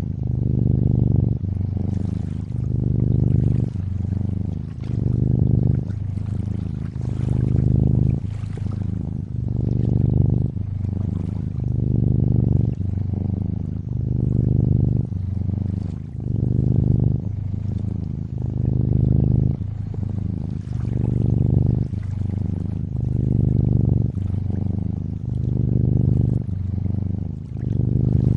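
Cat purring, low and steady, swelling and fading about once a second with each breath, over a gentle trickle of water.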